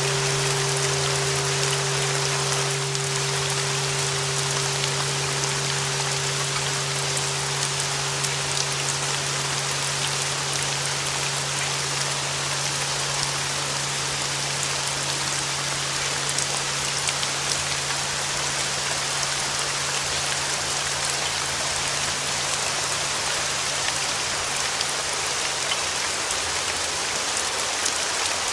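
Steady rain noise with a held 396 Hz flat-bell tone and a lower tone under it, both slowly fading. The 396 Hz tone dies away about halfway through and the lower one near the end, leaving only the rain.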